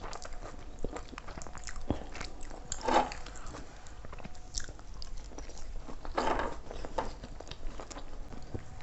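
A person biting and chewing food, with crunching and wet mouth clicks; louder bites about three seconds in and about six seconds in.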